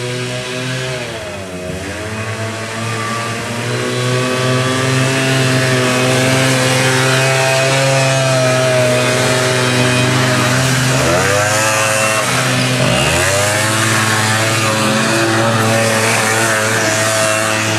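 Quad bike (ATV) engine running under throttle, growing louder over the first few seconds. Its pitch dips briefly and comes back up once early on and twice more later, as the throttle is eased off and reapplied.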